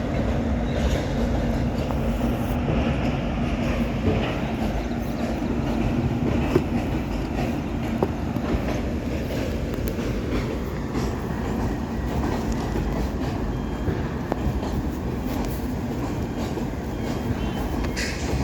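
Train running on rails: a steady low rumble with a few sharp clicks. A steady hum in the first few seconds fades out.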